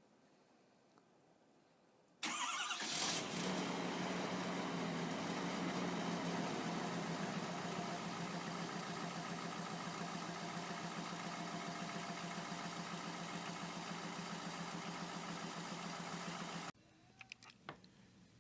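Cold start of a 2013 6.7-litre turbo-diesel engine: it fires about two seconds in, flares briefly, then settles into a steady idle. The sound stops abruptly near the end.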